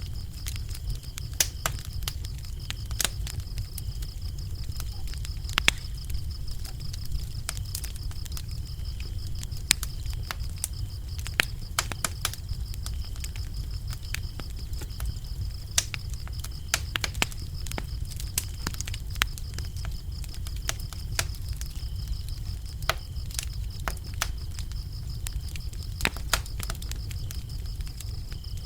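Wood fire crackling, with irregular sharp pops and snaps over a low steady rumble. Crickets trill continuously in the background as a thin, high, unbroken tone.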